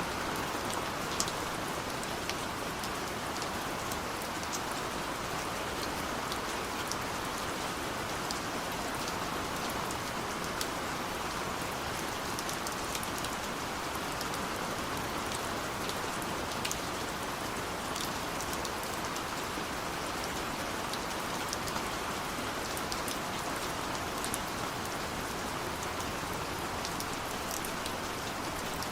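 Steady rain falling, an even hiss with scattered sharp taps of individual drops hitting a surface.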